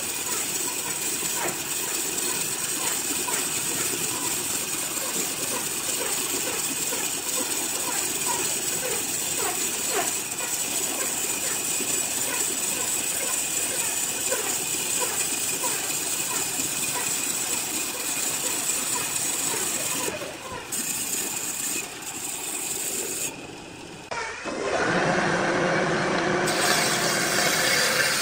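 Wood lathe running with a turning tool cutting the spinning wood: a steady hiss with rapid scraping. After about 20 seconds it drops out briefly a few times, then comes back louder and fuller.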